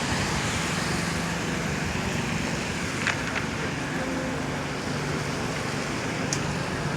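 Steady hiss of city traffic on a rain-wet street, with tyres running on wet pavement and a low engine hum underneath.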